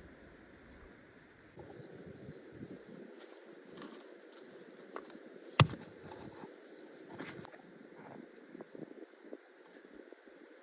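Regular short high-pitched chirps from a small animal, a little under two a second, over a soft outdoor background hiss. A single sharp knock sounds about halfway through.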